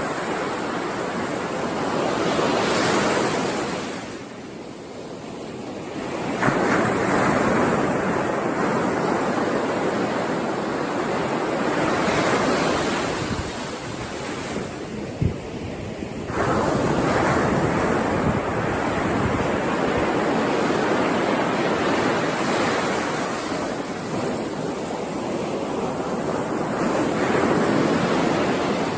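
Ocean waves breaking and washing up on a beach, surging and ebbing every few seconds, with wind buffeting the microphone.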